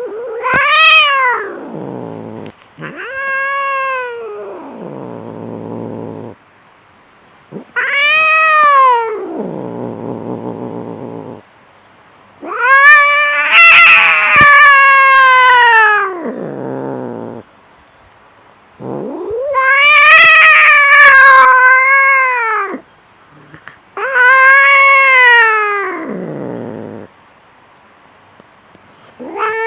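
Cats yowling in a fight: a series of long, drawn-out caterwauls that rise and then fall in pitch, each trailing off into a low growl, about six in turn with short pauses between them. In the middle two yowls overlap.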